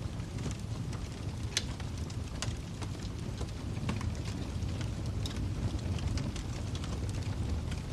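Wood fire burning in a fireplace, with a steady low rumble of the flames and frequent sharp crackles and pops, one louder pop about a second and a half in.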